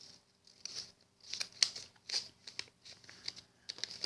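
A sheet of paper rustling and crinkling by hand in a series of short, scratchy rustles as it is folded and creased.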